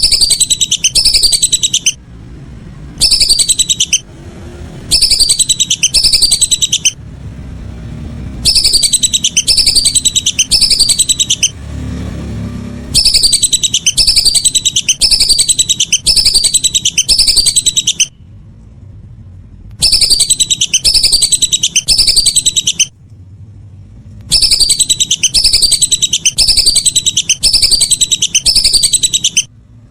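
Whistling duck (belibis) calls: loud, rapid series of high, downward-sliding whistles, about four a second, coming in bursts of a few seconds with short pauses between, typical of a calling recording played to lure the birds.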